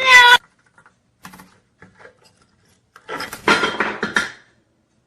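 A talking pet parrot vocalising: a short pitched call at the very start, a few soft clicks, then a longer, harsher call about three seconds in.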